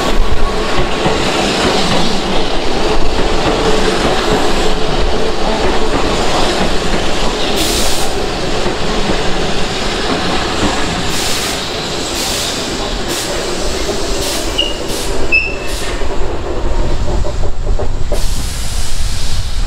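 Keihan Electric Railway commuter train running along the station platform. A steady hum in the first half gives way to wheels clattering over rail joints, with two brief wheel squeals about 15 seconds in.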